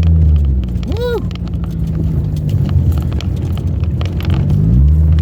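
Pickup truck engine pulling steadily, then easing off about half a second in to a rough low rumble with many short knocks and rattles from driving over rough trail; near the end the engine note builds back up and holds steady.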